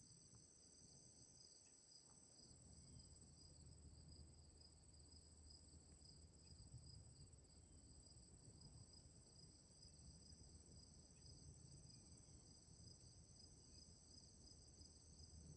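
Faint, steady, high-pitched chorus of insects in several pitch layers, with a low rumble underneath.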